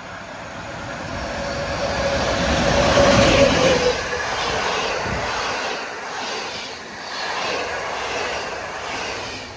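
PKP Intercity locomotive-hauled passenger train passing through the station. The locomotive's steady tone and rolling noise build to a peak about three and a half seconds in and cut off as it goes by. The coaches follow, their wheels clattering in a repeated rhythm.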